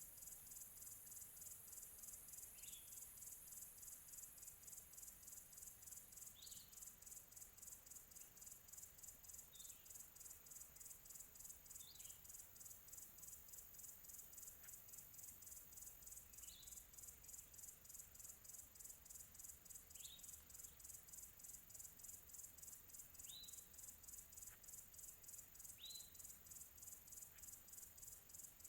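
Faint chorus of crickets chirping in a fast, even pulse, with a bird giving a short falling call about every three seconds.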